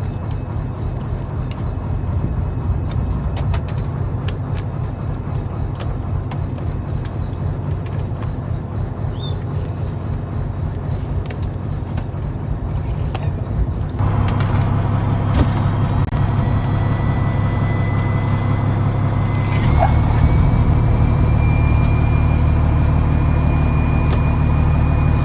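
Fishing trawler's engine running with a steady low drone. About halfway through it gets louder and a high whine comes in, rising slowly in pitch, and the drone steps up again a few seconds before the end.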